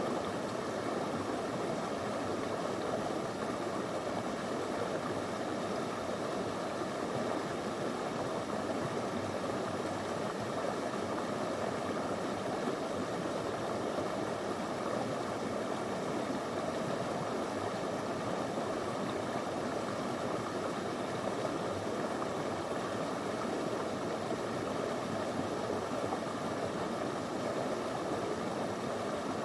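Small river flowing over stones: a steady, unbroken rush of water.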